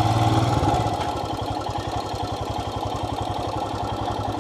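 Royal Enfield motorcycle engine running at low speed with a steady, even pulsing beat, easing slightly about a second in.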